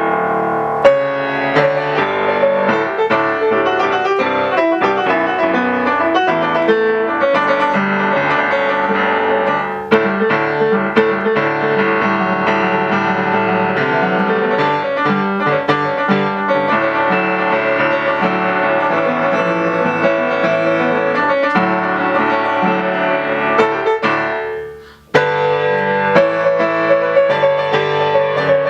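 Solo piano playing a fast, dense passage of many quick notes, briefly breaking off about 25 seconds in and then starting again.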